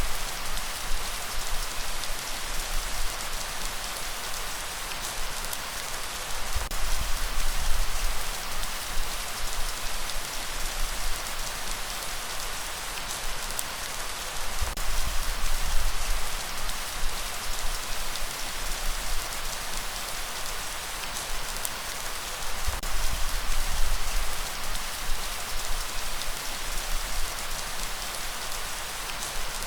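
Steady rain falling and pattering on surfaces, with a low rumble underneath that swells and fades about every eight seconds.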